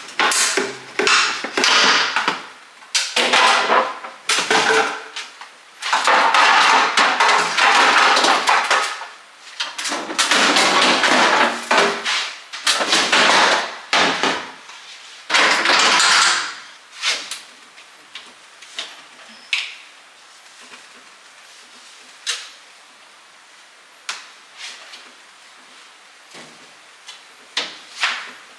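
Refrigerator clean-out handling sounds: a run of loud noisy bursts lasting a second or more each, then from about 17 seconds in, scattered light knocks and clicks of containers, shelves and drawers.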